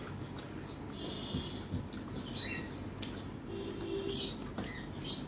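Close-miked chewing with wet mouth clicks and lip smacks, along with fingers mixing rice on a steel plate.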